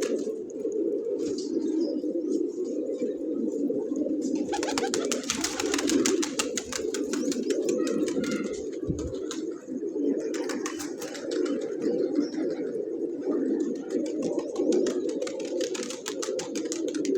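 Many domestic pigeons cooing together in a continuous low, overlapping drone. Several bursts of rapid clicking are mixed in.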